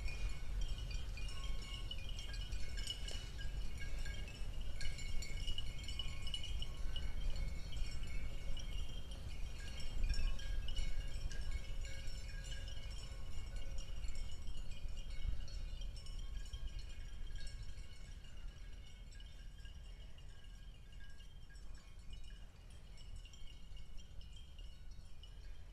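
Outdoor ambience: a steady low rumble under many short, high, ringing tones, which grow sparser and quieter in the last third. No cow calls are heard.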